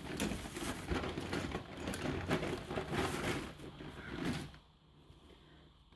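Plastic scraping and clicking as the cover of a sealed 12-volt car battery is worked loose, stopping about four and a half seconds in.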